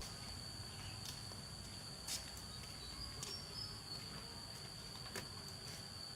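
Insects chirring in one steady high-pitched tone, with a few faint clicks.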